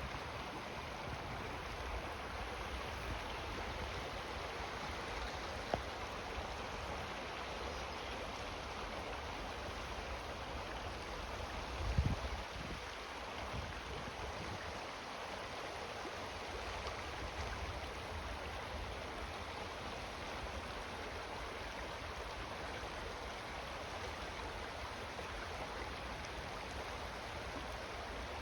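Steady rush of flowing water, with a brief low thump about twelve seconds in.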